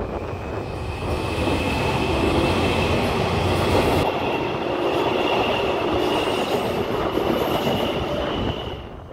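Taipei Metro electric train running on the rails: steady rumble with a high whine held throughout.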